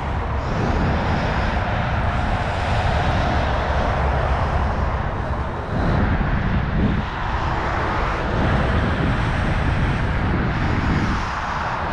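Riding a bicycle: steady rushing wind buffeting the microphone, with rolling tyre noise underneath.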